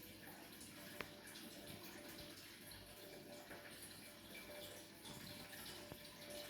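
Faint, steady trickling of aquarium water running through an overhead sump filter, with a single light click about a second in.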